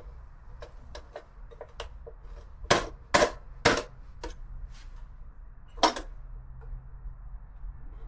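Sharp clicks and knocks of metal parts being handled and tapped while working on a motorcycle: small clicks throughout, with three loud knocks in quick succession about three seconds in and one more near six seconds.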